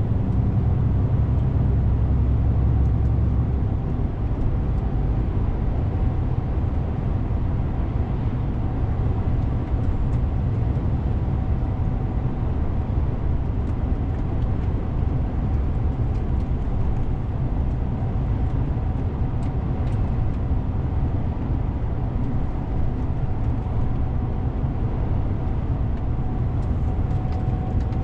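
DAF CF 450 truck on the move: its six-cylinder diesel engine running steadily under road and tyre noise. The engine note is deeper and steadier for the first few seconds, then gives way to a rougher, fluctuating rumble.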